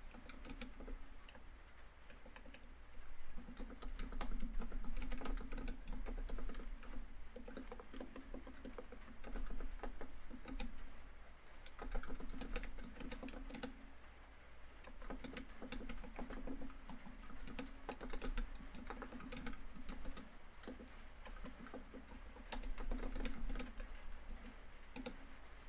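Laptop keyboard typing in quick runs of key clicks with short pauses, over a steady background of rain falling on a tin roof.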